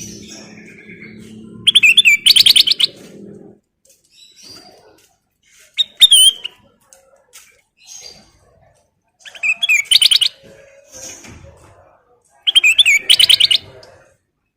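Kutilang emas (bulbul) singing: four loud, quick trilled phrases a few seconds apart, with softer chirps in between.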